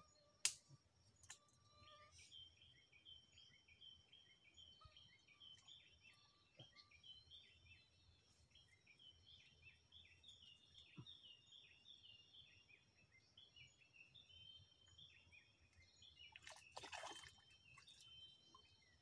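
Faint bird song: a long run of quick, short, high chirps. A single sharp click about half a second in is the loudest sound, and near the end there is a brief splash of water as a stick is worked in the shallows.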